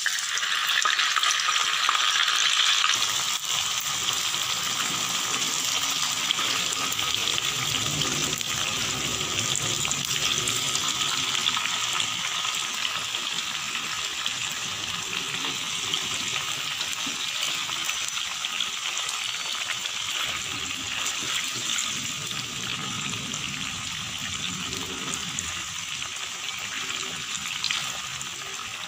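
Tofu cubes frying in hot cooking oil in a pan: a steady, dense sizzle, loudest over the first few seconds and then easing off slowly as the frying goes on.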